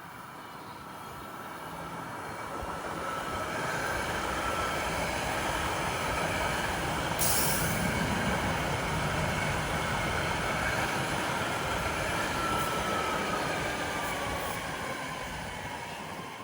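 BART train going by: the rumble builds over a few seconds, holds, and fades near the end. A high wheel squeal whines through it, sliding down in pitch as the train moves off. A short sharp hiss comes about seven seconds in.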